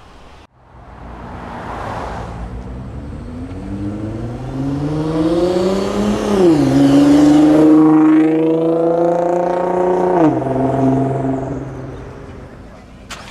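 Nissan GT-R's twin-turbo V6 accelerating hard away, its exhaust note climbing in pitch and then dropping sharply at an upshift about halfway through. It holds a steady note, drops again about three-quarters through, and fades as the car pulls away.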